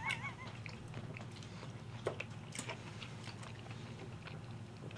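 Chewing and soft mouth noises of people eating chicken nuggets, with a few scattered small clicks and taps.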